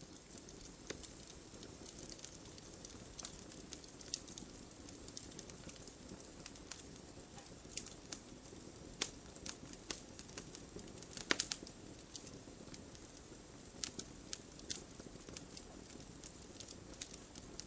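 Wood fire crackling: irregular sharp pops and snaps over a steady low hiss of burning. A brief cluster of louder pops comes about eleven seconds in.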